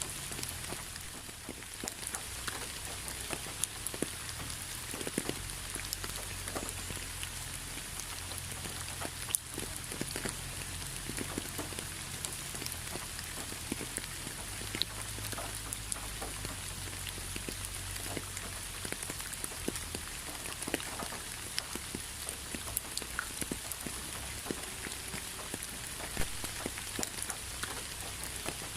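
Rain falling steadily, a constant hiss with many separate drops ticking and pattering on a surface.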